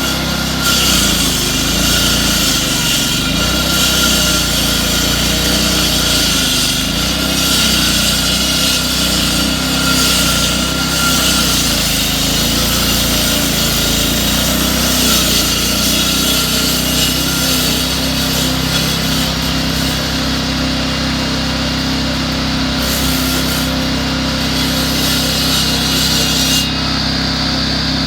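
Small-engine power saw running under load with a harsh, gritty cutting noise over a steady engine note; near the end the cutting noise stops suddenly and the engine keeps running.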